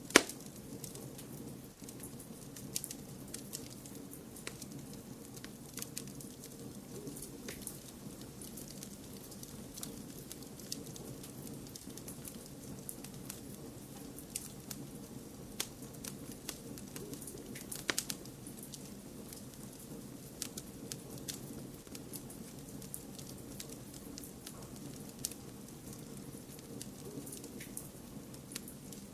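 Wood fire crackling: irregular sharp pops and snaps over a steady low noise bed, with a loud pop right at the start and a small cluster of pops about two-thirds of the way through.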